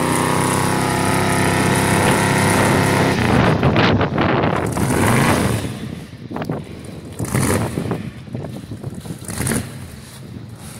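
Straight-piped 6.0-litre V8 of a 1999 Chevy Silverado revving up and held at high revs for about three seconds, then backing off. It then runs unevenly, with a few shorter surges of throttle.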